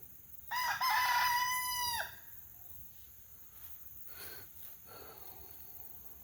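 A rooster crowing once: a single crow of about a second and a half that starts half a second in, stutters at the start, holds, then drops off at the end.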